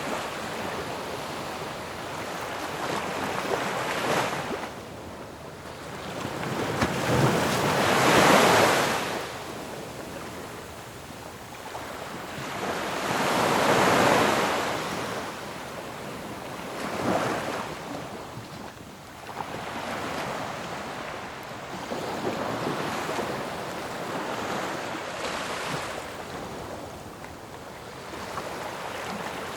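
Sea waves breaking on a shore, each one a rushing wash that swells and fades every few seconds. The loudest surges come about eight and fourteen seconds in.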